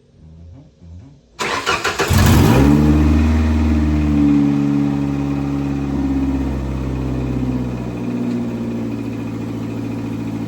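Race car engine cranked over by the starter about a second and a half in, catching at once with a brief rev, then settling into a steady idle.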